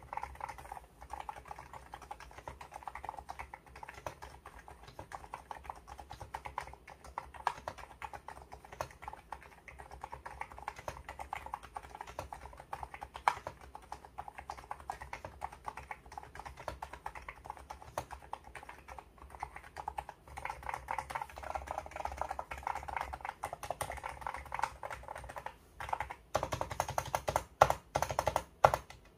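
Continuous typing on an ABKO electro-capacitive (Topre-style) keyboard: a fast, steady run of key presses, with louder, sharper strokes in the last few seconds.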